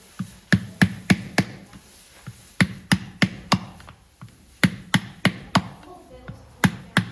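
Farrier's hammer striking metal in quick runs of four sharp blows, about three a second, with a pause of about a second between runs.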